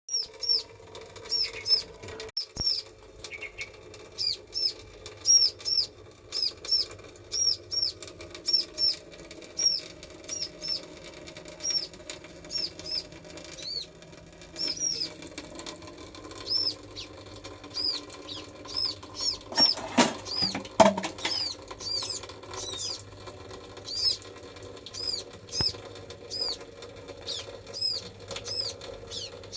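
Short, high-pitched chirping calls repeating a little faster than once a second, over a faint steady low hum, with a few sharp knocks about two-thirds of the way through.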